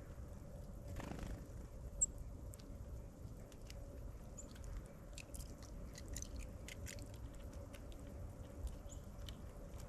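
Birds at a feeder pecking and cracking seed: quick dry clicks and taps, thickest around the middle, with one sharper click about two seconds in, over a low steady rumble and a faint hum.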